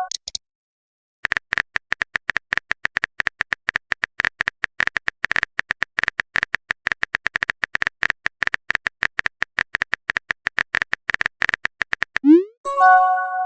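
Rapid, evenly paced typing clicks of a keyboard sound effect as a chat message is typed out, then near the end a short rising swoop and a bright chime, the sound of the message being sent.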